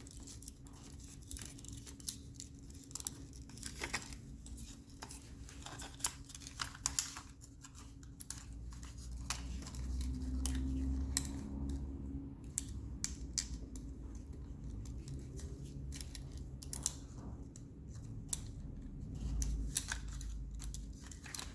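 Small plastic clicks and rustling as thin zip ties are handled and threaded through a hole in a plastic gauge head, the clicks coming irregularly, with a faint steady hum underneath.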